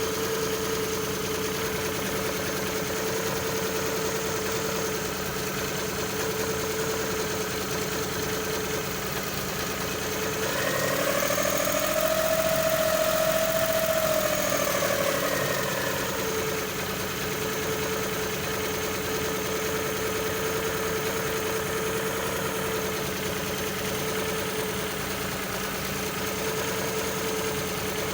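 Suzuki F6A three-cylinder engine idling with a slightly wavering speed. About ten seconds in, the revs rise, hold for a few seconds and drop back to idle: the up-and-down, surging idle fault.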